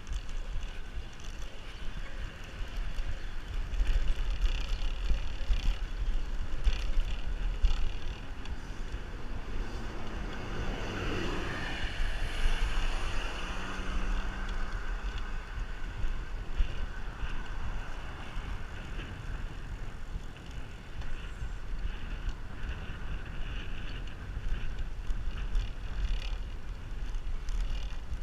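Wind buffeting the microphone of a camera on a moving bicycle, with rolling road noise. A louder passing swell comes around the middle.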